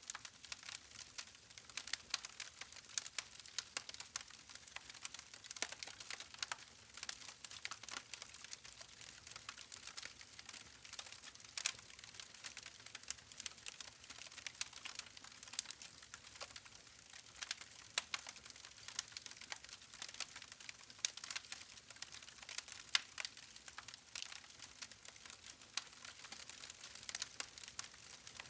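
Wood fire crackling: a dense, irregular run of small sharp pops and snaps over a faint hiss, with a few louder pops.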